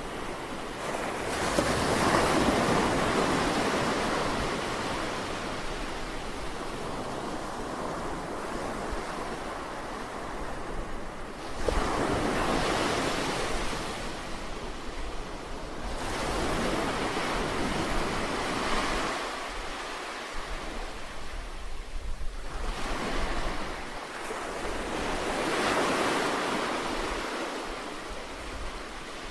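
Sea waves breaking and washing up a shore, swelling and ebbing in surges every several seconds, the loudest about two seconds in.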